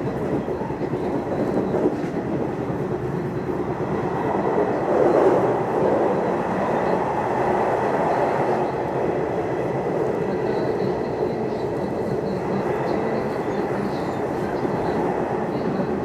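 Nishitetsu electric commuter train running along the line, heard from inside the car: a steady rumble of wheels on rails with a faint high tone, swelling briefly about five seconds in.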